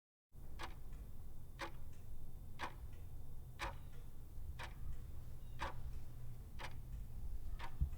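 Sharp ticks, evenly spaced about one a second, eight in all, over a steady low hum.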